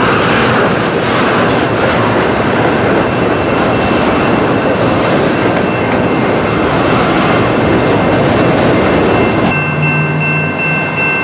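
Train passing over a level crossing: a loud, steady rumble of rail cars with wheel clatter, which drops away sharply about nine and a half seconds in. After that the crossing's warning bell is left ringing at a steady high pitch.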